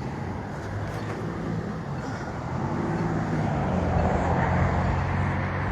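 A motor vehicle's engine running on the road, its hum growing louder about halfway through as it comes closer.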